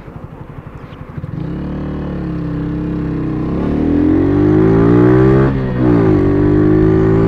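Motorcycle engine at low revs with an even putter, then about a second and a half in it pulls away, revs climbing, easing, and climbing again. Just past five seconds the revs drop briefly for a gear change, then rise and hold steady.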